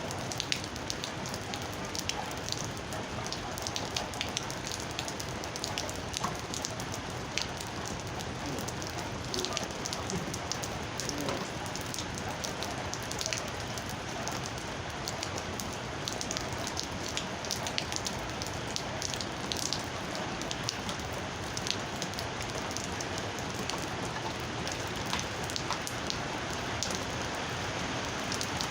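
Steady rain falling, an even hiss with frequent sharp drip taps of individual drops.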